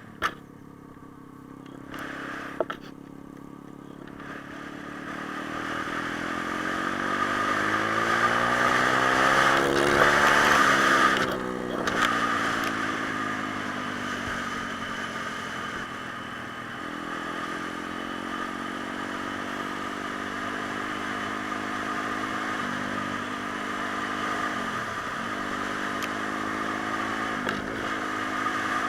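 Pit bike engine rising in pitch and loudness to a peak about ten seconds in, then dropping back and running steadily, after a few sharp knocks in the first three seconds.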